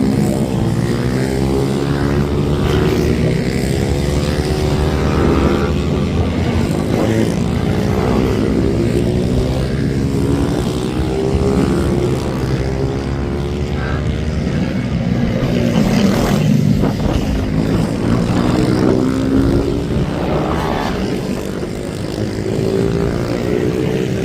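Several racing minibikes' small engines revving hard, their overlapping notes repeatedly rising and falling in pitch as the bikes accelerate and back off.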